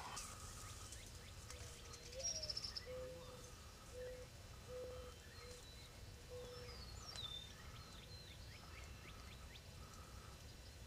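Wild birds calling: a short high trill about two seconds in, then a run of low, evenly spaced notes, a faint call repeating about once a second, and scattered high chirps.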